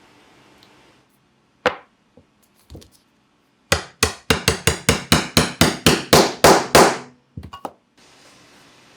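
Hammer blows on metal during engine assembly: one sharp strike, a couple of light knocks, then a quick run of about a dozen loud ringing blows at roughly four a second, ending in a few light taps.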